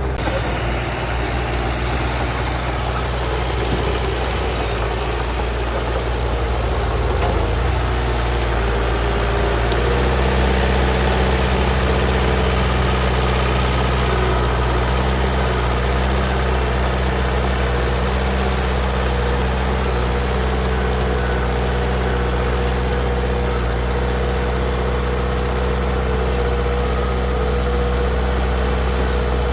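Heavy earthmoving diesel engine running steadily with a low hum, its note changing and growing a little louder about ten seconds in.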